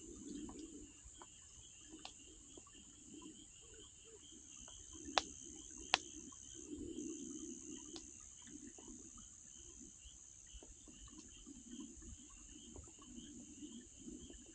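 Wood campfire crackling with scattered small clicks and two sharp pops about five and six seconds in, over the steady chirring of crickets or other insects.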